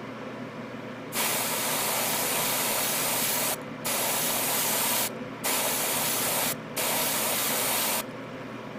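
Airbrush spraying in four bursts of steady hiss, with short breaks between them.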